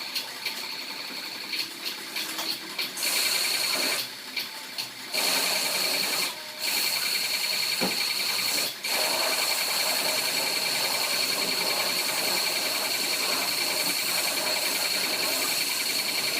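High-pressure car-wash washer running with a steady high whine and hissing spray. It cuts out briefly three times in the first half, as the trigger is let go, then runs steadily.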